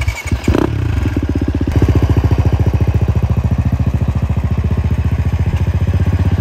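Dirt bike engine idling steadily with an even, rapid pulse. It picks up within the first second or two.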